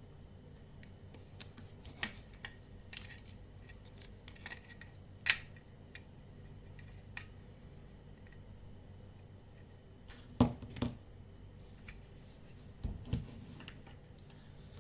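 Hands handling a plastic-and-aluminium flashlight: scattered sharp clicks and light taps, with a couple of duller knocks about ten and thirteen seconds in.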